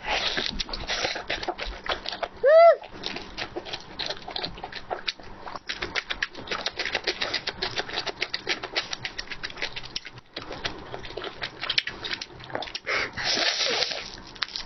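Close-up chewing and mouth sounds, a dense run of small wet clicks, with a short hummed 'mm' that rises and falls in pitch about two and a half seconds in. A louder bite comes near the end.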